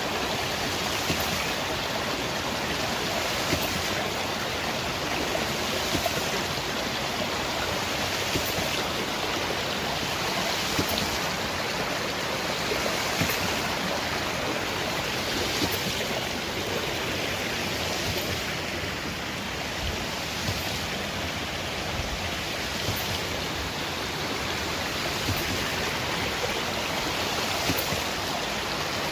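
Hydraulic ram pump at work: a steady rush of water with a short clack about every two and a half seconds, the pump's waste valve cycling.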